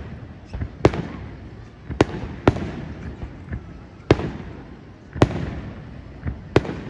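Aerial firework shells bursting: six loud booms at uneven intervals, each trailing off in an echo, with a few fainter pops between them.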